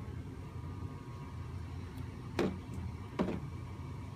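Steady low room hum, with two sharp clicks about a second apart in the middle.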